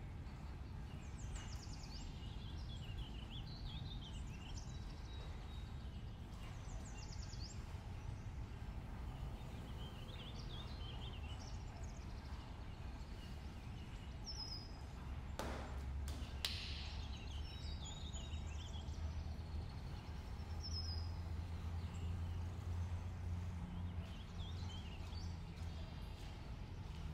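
Small birds chirping in short scattered calls. About halfway through there is a sharp click, and a low steady electric hum follows, typical of a pottery wheel's motor running while clay is pressed onto the bat.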